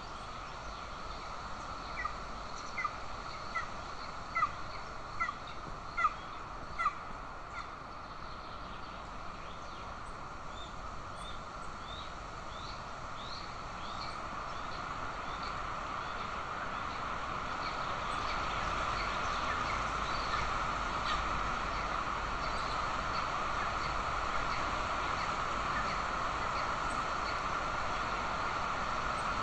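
Golden eagle calling at the nest: a run of about eight short, high calls, one every second or less, in the first seven seconds. Faint high chirps follow, and from about halfway a steady hiss grows louder.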